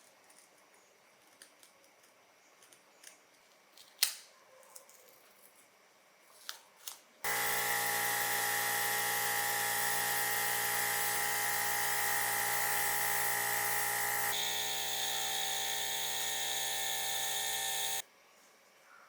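Light clicks and taps with one sharp click about four seconds in, then a small electric motor starts suddenly and runs at a steady pitch. About seven seconds later it shifts to a different tone, and it cuts off abruptly a few seconds after that.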